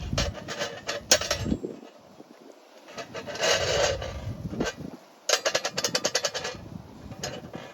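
Quick scraping, rasping strokes in three spells: a few near the start, one longer scrape about three seconds in, and a fast run of about a dozen short strokes between five and six and a half seconds.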